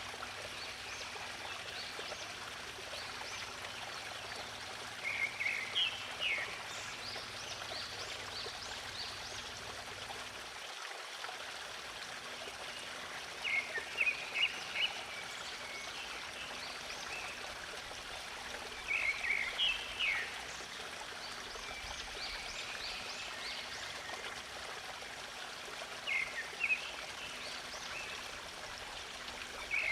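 Flowing stream water running steadily, with a songbird repeating a short phrase of quick high notes every six or seven seconds and fainter chirps in between. The low part of the water sound drops out briefly about eleven seconds in.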